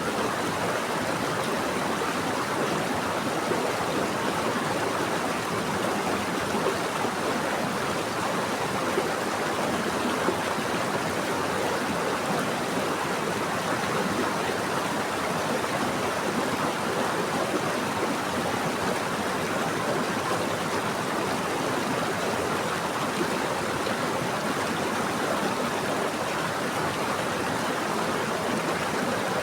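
Running water of a stream or river flowing over rocks, a steady rushing with no breaks.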